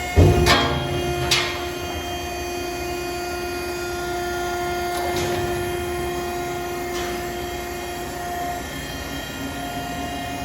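Vertical cardboard baler's hydraulic power unit (a 10 HP three-phase electric motor driving the pump) running with a steady hum, with loud metallic clunks in the first second and a half and lighter clicks later on.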